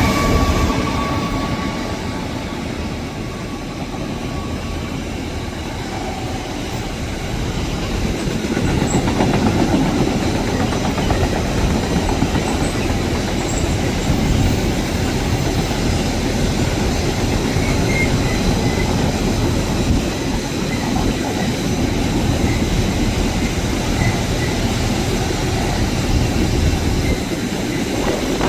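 Freight wagons of a Class 66-hauled train rolling past, a steady rumble of wheels with clickety-clack over rail joints and faint wheel squeal.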